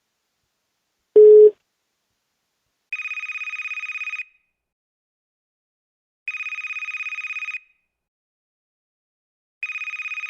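A short, loud, low beep about a second in, then a telephone ringing with an electronic warbling ring: three rings of just over a second each, about three seconds apart, the last running on past the end.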